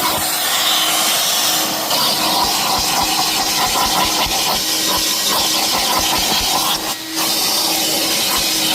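Vacuum cleaner running steadily with a loud hiss of suction while cleaning a car's interior, dipping briefly about seven seconds in.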